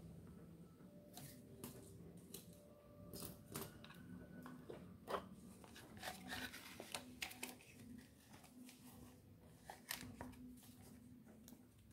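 Faint, scattered clicks and taps of small parts and hand tools being handled, over a low steady hum. There is no drill motor running.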